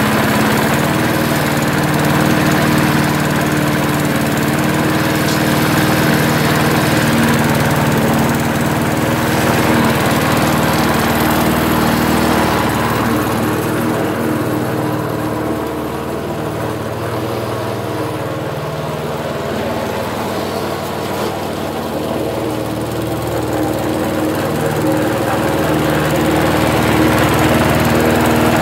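Sanli petrol lawnmower engine running steadily after its sheared flywheel key was replaced. Its speed drops off around the middle and picks up again near the end. It is still not running 100%, which the owner thinks may be the blade not being quite right.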